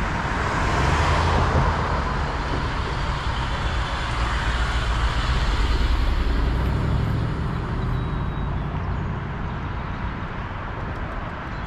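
Road traffic passing at an intersection: motor vehicles driving by, the noise swelling about a second in and again around five to seven seconds, then easing off.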